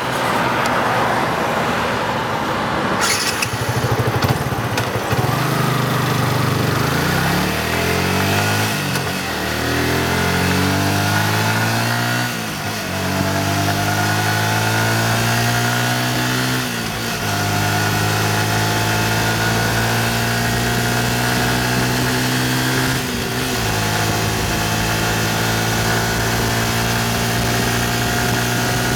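Yamaha FZ150i's single-cylinder four-stroke engine accelerating hard through the gears. Its pitch rises in each gear and drops at four upshifts, with wind rushing past.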